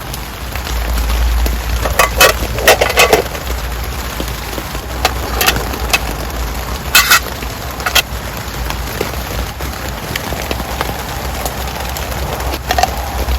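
Heavy rain falling steadily, with a low rumble under it. Several sharp knocks, a cluster of them about two to three seconds in and more spread out after.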